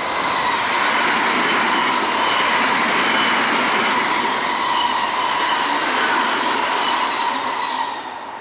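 Odakyu 8000 series ten-car electric commuter train passing close by at about 96 km/h: a loud rush of wheels on rail with a steady high ringing tone over it. It fades as the last car goes by near the end.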